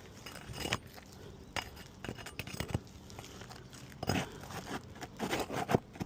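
A hand tool scraping and clicking against asphalt roof shingles as they are pried up to break their seal, in irregular strokes that come thickest near the end.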